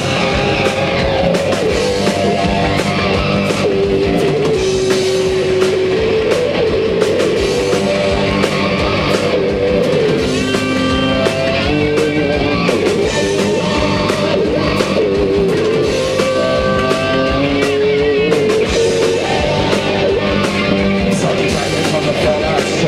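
Rock band playing live, an instrumental passage with a melodic electric guitar line over a steady drum beat.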